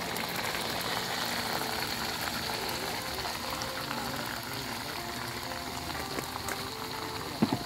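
Chilli sambal sizzling and bubbling in hot oil in a wok: a steady crackling hiss.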